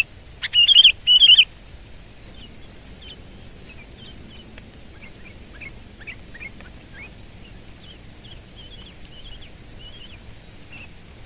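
Sooty-headed bulbul singing: a loud run of short, bubbly phrases in the first second and a half, then only faint scattered chirps.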